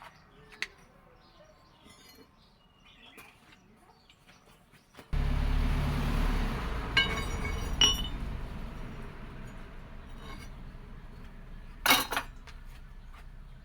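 Steel clinking and ringing in a forging workshop: two light ringing clinks, then a louder ringing strike near the end. Under them a low rumbling hum starts suddenly about a third of the way in and slowly fades.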